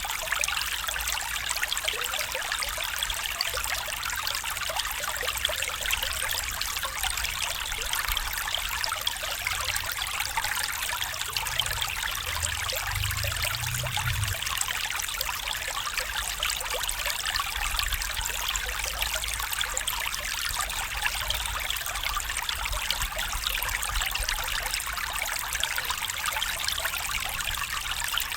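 A stream trickling and babbling over stones in a steady, unbroken rush of water.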